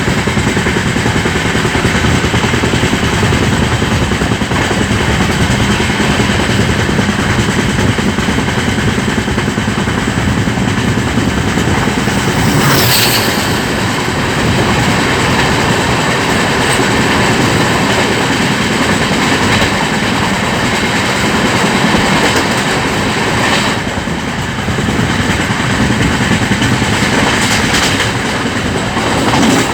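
Vaishali Superfast Express passing through a station at speed without stopping, its coaches' wheels running over the rails in a loud, steady rush. A brief sharp noise cuts through about thirteen seconds in.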